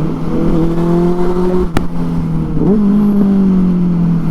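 Benelli 600i inline-four motorcycle engine running at steady revs through an aftermarket IXIL exhaust, its pitch dipping and then picking up slightly about two and a half seconds in. A single sharp click just under two seconds in.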